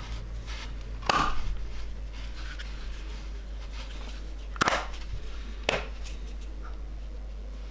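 Three sharp knocks, about a second, four and a half and five and a half seconds in, over a steady low hum.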